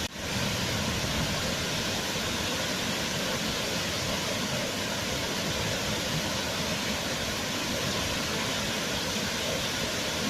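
Waterfall: water falling and rushing steadily, with a brief dropout right at the start.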